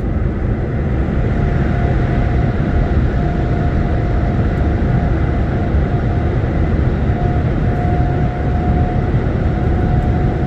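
Lorry driving at a steady pace, its engine and road noise heard from inside the cab, with a faint steady whine coming and going from about a second and a half in.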